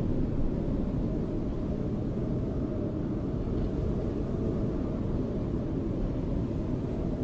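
Steady snowstorm wind: a dull, even rumble of rushing air, heavy in the low end, with no gusts or breaks.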